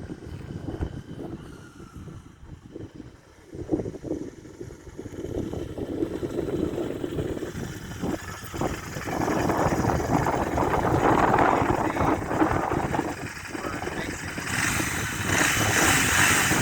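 Royal Enfield Interceptor 650 Mark II's 648 cc parallel-twin engine running, its sound building up and getting louder over the second half.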